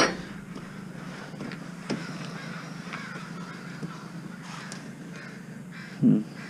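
Birds calling outdoors, crow-like caws, with one short louder call near the end, over a low steady hum and a few faint clicks.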